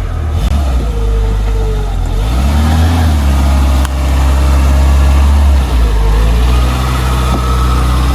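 Citroën AX GT's four-cylinder petrol engine running after a fresh start, idling with a short rise and fall in revs about two to three seconds in while it warms up.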